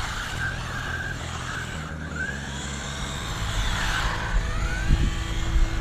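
SG 1604 1/16-scale RC car's 380 brushed electric motor whining, rising and falling repeatedly in pitch as the throttle is worked.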